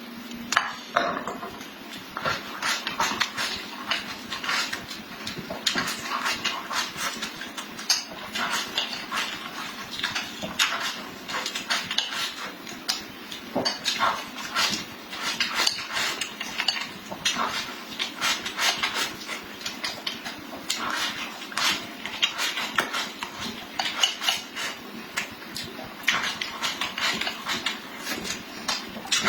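Close-up eating sounds: a continuous, irregular run of quick clicks and smacks from chewing food and utensils against a dish.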